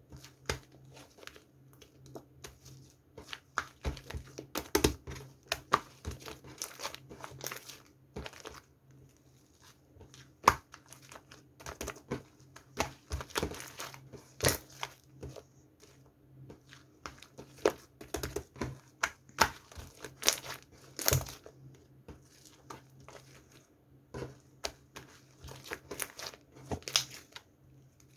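Light-purple slime being squeezed and stretched by hand, with a run of irregular wet crackles and pops.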